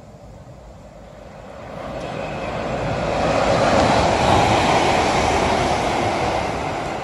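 Class 350 electric multiple unit passing through the station at speed, its rushing wheel and air noise swelling about two seconds in, loudest around the middle, and easing off near the end.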